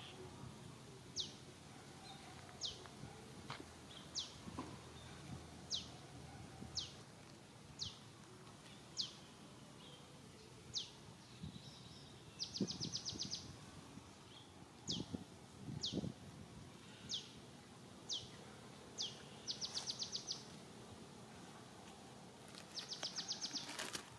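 A bird calling over and over: a short, thin, high note falling in pitch about once a second, with three quick trills, about half a second in, two-thirds of the way in and near the end. Faint rustling lies underneath.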